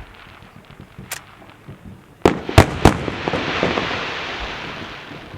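Maltese festa fireworks: a single sharp bang about a second in, then three loud bangs in quick succession a little after two seconds, followed by a dense crackling that slowly fades out.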